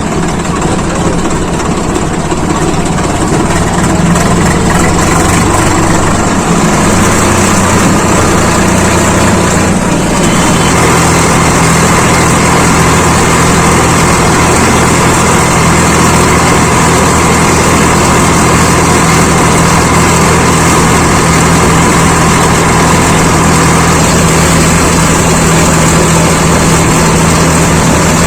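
Swaraj 855 FE tractor's three-cylinder diesel engine running steadily, its note shifting about ten seconds in and then holding steady.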